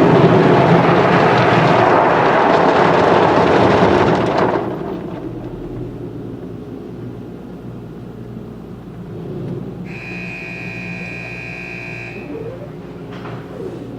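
Automatic tunnel car wash machinery running: a loud rushing noise for the first four and a half seconds, then a lower steady hum. A steady high tone sounds for about two seconds near the end.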